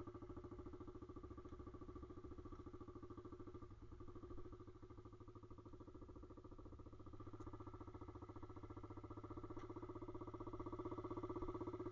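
Pit bike's single-cylinder engine idling steadily, a little louder near the end.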